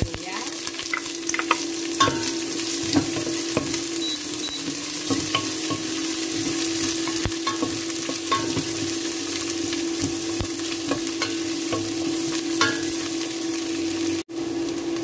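Chopped garlic and onion sizzling in hot oil in a stainless steel pot, stirred with a wooden spatula that clicks against the pot now and then. The sound cuts out for an instant near the end.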